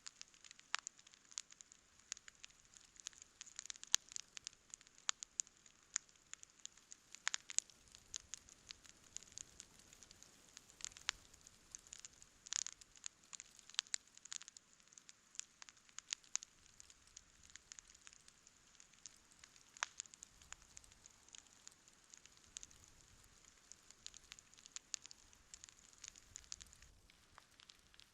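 Wood campfire burning with sharp, irregular pops and crackles over a faint steady hiss.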